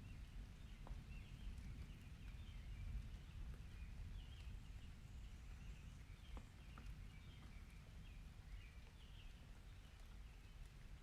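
Faint outdoor nature ambience: a steady low rumble under frequent small, high chirps from birds or other small animals, with a few scattered ticks.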